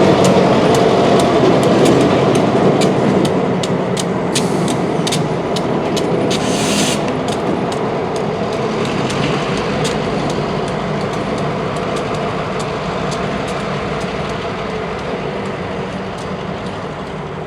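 A train moving through the rail yard, wheels clicking over rail joints, with a locomotive's engine hum fading slowly as it moves away. A short hiss comes about six and a half seconds in.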